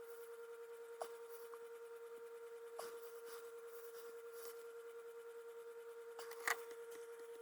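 Steady faint electrical hum with a few light, sparse clicks and taps from handling small parts, the last and loudest about six and a half seconds in.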